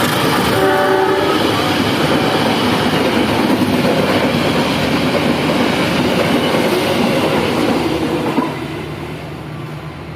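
A train passing close by, its horn sounding briefly near the start, then the cars rumbling and clattering past on the rails until the noise drops away at about eight and a half seconds.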